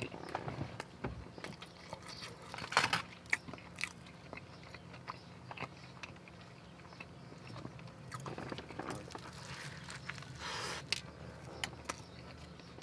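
A person chewing a mouthful of chili cheese fries and pastrami burger with the mouth closed: faint wet mouth smacks and clicks, one louder about three seconds in.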